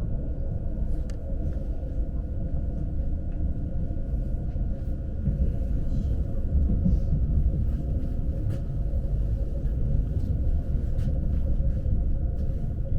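Lastochka commuter train running, heard from inside the passenger car: a steady low rumble with a faint steady whine and a few light clicks, a little louder from about five seconds in.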